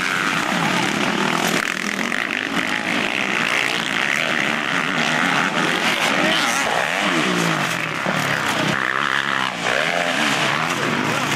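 Motocross bike engines revving hard, their pitch repeatedly rising and falling as the riders work the throttle, with several engines overlapping.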